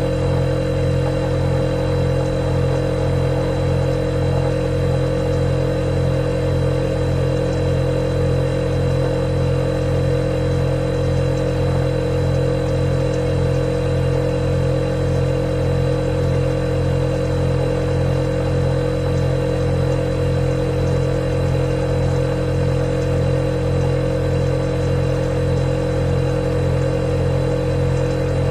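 Refrigerator compressor running with a steady low hum, with a faint high whine above it.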